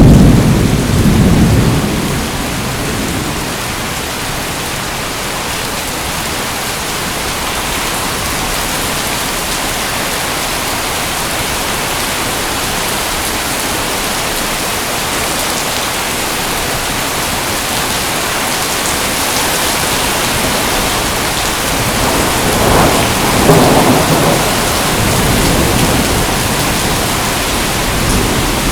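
Steady rain hissing, with rolls of thunder: a low rumble dying away in the first two seconds and another swelling about three quarters of the way through.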